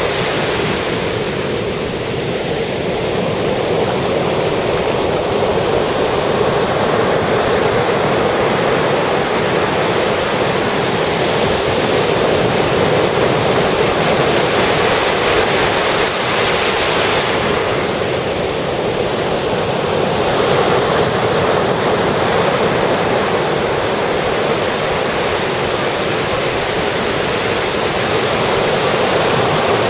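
Ocean surf breaking and washing up a sandy beach, a continuous rushing noise that swells and eases slightly as the waves come in.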